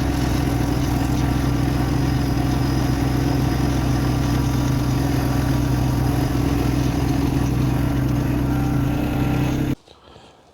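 Tractor engine running at a steady speed with an even, unchanging note; it stops abruptly near the end.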